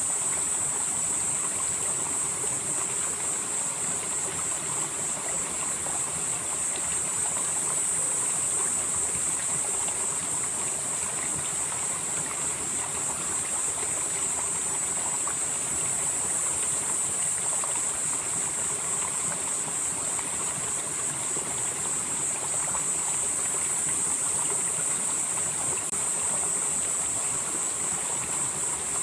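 Mountain stream flowing steadily over rocks, a constant rushing with a high-pitched hiss on top that swells and fades slowly every several seconds.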